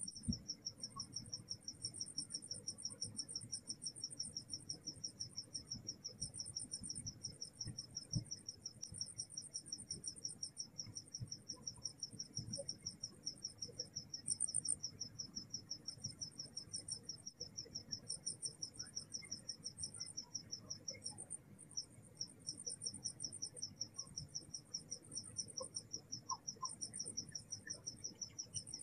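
Night insects, crickets, chirping: one steady, rapidly pulsing high trill, with a second, even higher trill that starts and stops in stretches of a second or two.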